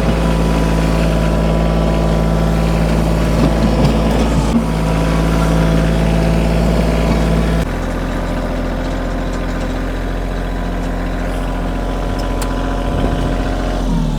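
Compact diesel tractor engine running steadily under way while dragging an implement over the gravel driveway. Its note changes abruptly about halfway through, and its pitch falls near the end.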